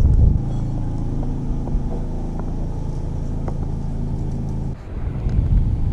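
A car engine idling steadily with a low hum, which stops about five seconds in.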